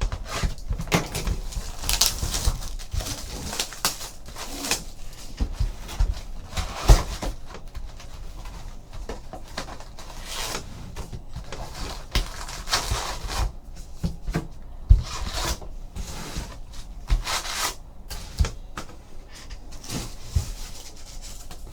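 A sealed box of trading cards being opened and its packs handled: an uneven run of crinkling, rustling wrapper and small cardboard taps and scrapes.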